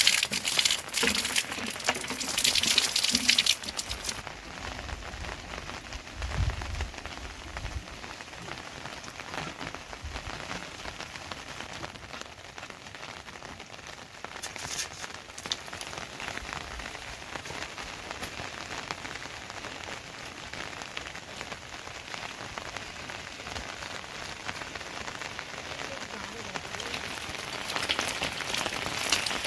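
Rain falling steadily, heavier and hissier in the first few seconds and again near the end, with a brief low rumble about six seconds in.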